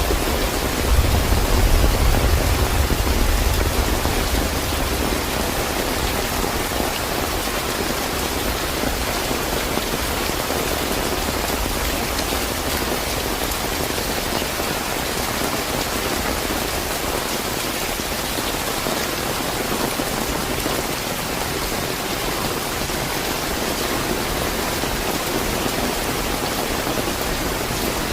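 Steady, fairly heavy rain falling: an even hiss. A deep low rumble under it fades away in the first few seconds.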